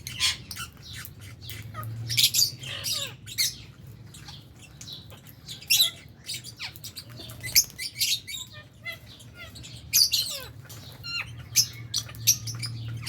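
A flock of lovebirds chirping and squawking: many short, shrill, overlapping calls in an irregular stream, over a low steady hum.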